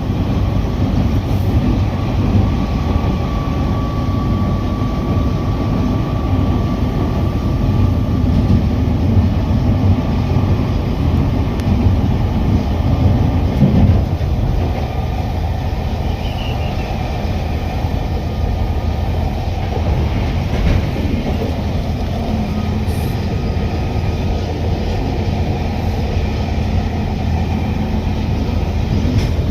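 A train running along the track: a steady, loud rumble of wheels and cars.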